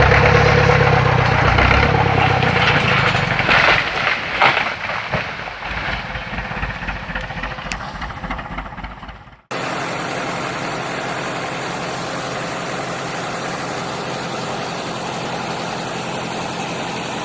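Heavy machinery engine running, with a few sharp knocks about three and a half to four and a half seconds in, fading off; about nine and a half seconds in it cuts to another engine running steadily.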